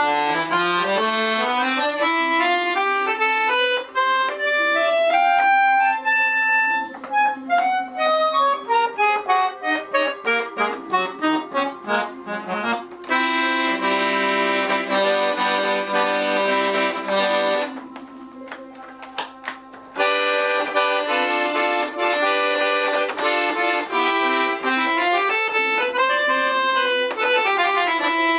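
Transivox accordion being test-played after repair: a run of single notes climbing step by step and then back down, followed by held chords, a short quieter gap, more chords and another run up and down near the end.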